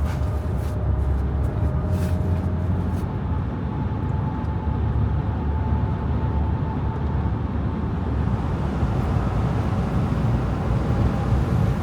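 Steady low road rumble and engine drone of a moving car, heard from inside the cabin.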